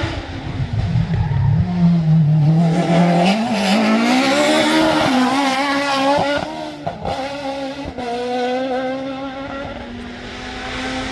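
Rally car engine at high revs on a stage, its note climbing as it accelerates. About two-thirds of the way through it dips with a few sharp cracks, then pulls again and eases off near the end.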